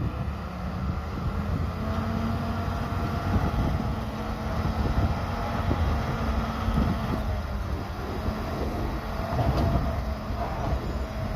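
Diesel engine of heavy earthmoving machinery running steadily, a low rumble with a faint steady hum.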